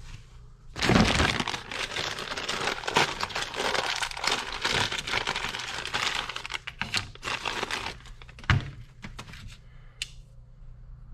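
Plastic packaging of a hydraulic cylinder seal repack kit crinkling and crackling as it is torn open and handled, with one sharp knock near the end.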